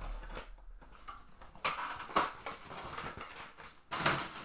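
Trading cards being flipped through and slid by hand, a dry papery rustling with a few sharper swipes, the clearest about halfway through and near the end.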